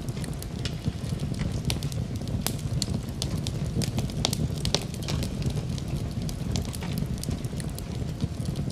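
Wood fire burning in a fireplace: a steady low rumble of the flames with sharp crackles and pops at irregular intervals.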